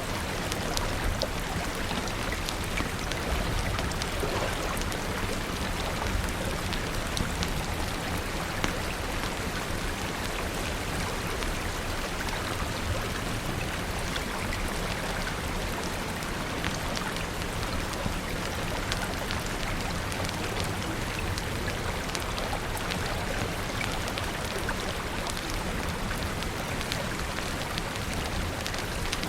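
Steady rain falling, a continuous hiss scattered with many small sharp ticks.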